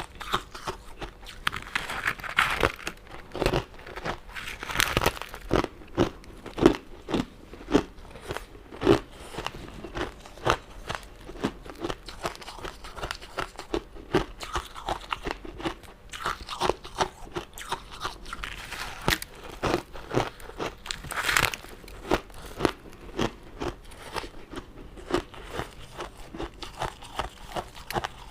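Close-miked eating of crystal candy and jelly sweets: irregular sharp crunches of a sugary crust being bitten and chewed, several a second.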